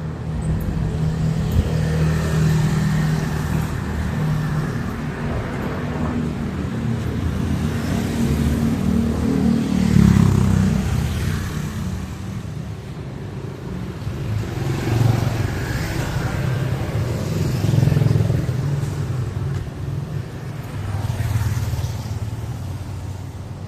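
Street traffic: motor vehicles running and passing close by, their engine noise swelling and fading several times, loudest about ten seconds in.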